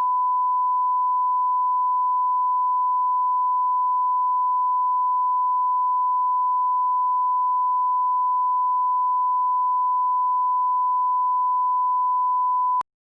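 Steady 1 kHz sine-wave reference test tone at −18 dBFS line-up level, one unbroken pitch that cuts off abruptly near the end.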